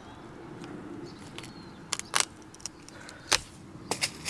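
Several sharp snaps and clicks of a plant being cut back, the loudest a quick double snap about two seconds in, over a low steady hum.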